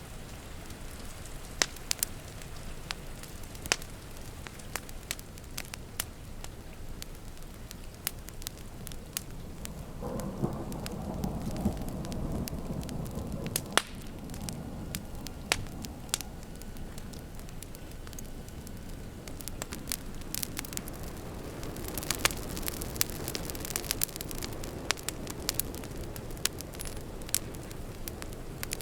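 Wood fire crackling and popping in sharp irregular snaps over the steady hiss of rain outside. About ten seconds in, a low rumble of thunder swells for a few seconds and fades.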